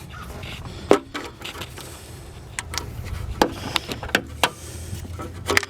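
Scattered clicks and knocks of hands and tools handling plastic parts in a car's engine bay, over a steady low hum.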